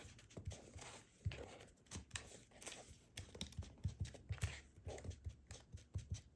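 Paper being handled and torn in small bits at its edges to give it a tattered look: faint, irregular rustles, crinkles and short tears.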